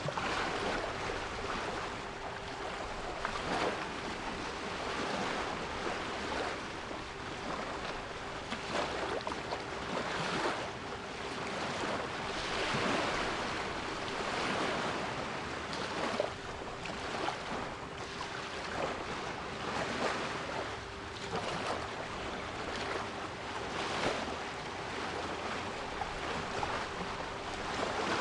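Sea waves washing in, swelling and receding every few seconds, with a steady 396 Hz pure tone held underneath.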